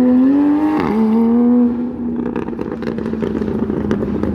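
Car engine revving hard under acceleration, its note climbing, with a quick drop in pitch from a gear change about a second in. Less than a second later it falls away into a quieter, noisier rumble with scattered clicks.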